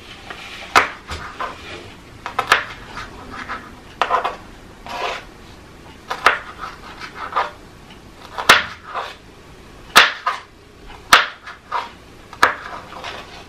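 Food preparation in a kitchen: irregular sharp knocks and clinks, about one every second or two, with rustling and handling noise between them.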